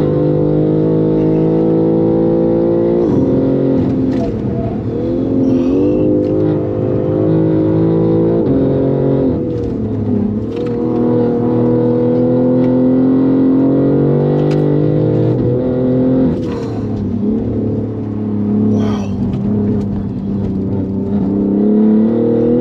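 Stage 2 tuned BMW M3 G80's twin-turbo straight-six under hard track driving, heard from inside the cabin. It runs at a steady high drone, with several brief dips in pitch that recover each time.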